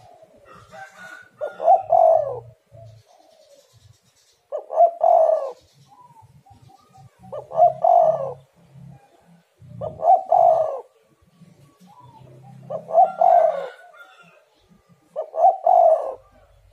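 Spotted dove cooing: a short phrase of low coos repeated six times, about every two and a half seconds, with fainter coos between the phrases.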